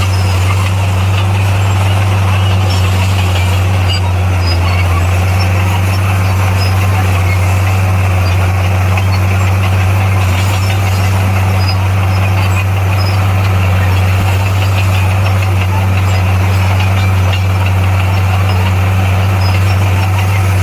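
Heavy diesel engine of earthmoving machinery running steadily at constant speed, a deep, even hum with a noisy rattle over it.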